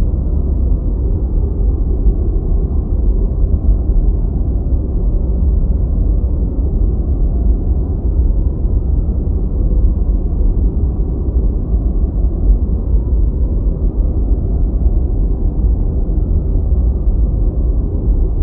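Steady deep white noise: an even, muffled rush with most of its weight low down and almost nothing high, unchanging throughout.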